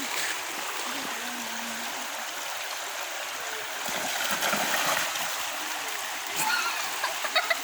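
River water running over rocks, a steady rushing hiss, a little louder about four to five seconds in.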